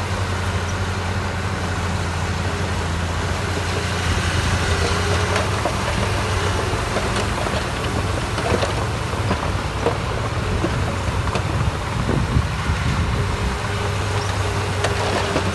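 Diesel engine of heavy construction machinery running steadily with a low hum, with a few short knocks scattered through.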